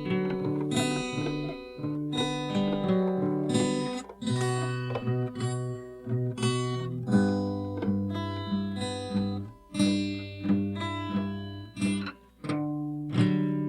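Acoustic guitar playing an instrumental intro: chords struck every second or so and left to ring, changing as it goes.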